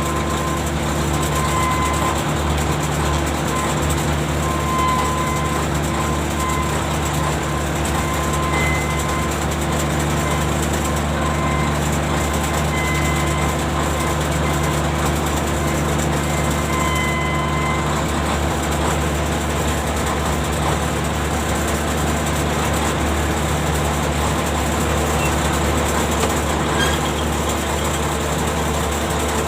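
Ship's deck machinery running steadily, a constant mechanical hum with a few short, faint high squeals now and then.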